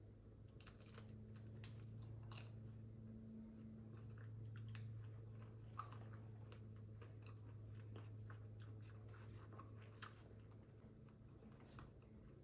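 Chewing and biting into large prawns, with many scattered sharp crunching clicks, over a faint steady low hum.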